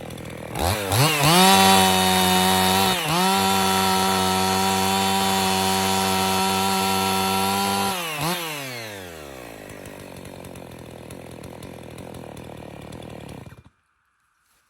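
Husqvarna 55 two-stroke chainsaw revved from idle to full throttle just under a second in and held high and steady for about seven seconds, with a brief dip near three seconds, as it cuts with a freshly sharpened Oregon chain. The throttle is then released, the engine winds down to idle and is switched off about a second before the end.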